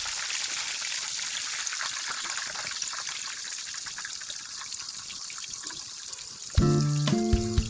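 Breaded pork cutlets deep-frying in hot oil in a wok: a steady sizzle with fine crackling. About six and a half seconds in, background music starts.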